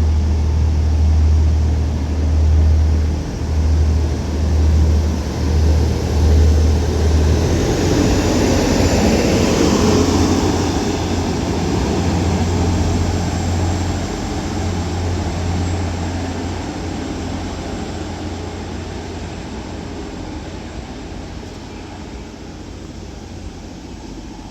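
Two coupled Class 185 diesel multiple units pulling out and accelerating away, their underfloor Cummins diesel engines working hard with a deep pulsing drone. The noise of the train going past peaks about ten seconds in, then fades steadily as it draws away.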